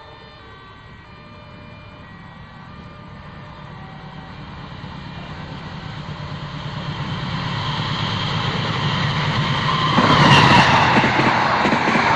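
Diesel-hauled passenger train approaching, its rumble growing steadily louder, then arriving about ten seconds in with a sudden rush of louder wheel and engine noise as it passes.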